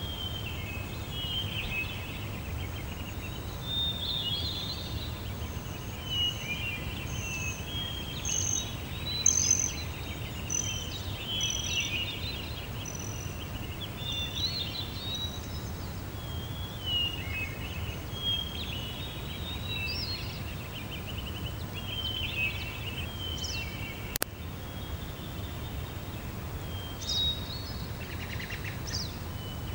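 Several birds singing and calling outdoors, chirps and short warbled phrases overlapping, over a steady low background rumble. From about 7 to 14 seconds in, one bird repeats a short high note roughly once a second.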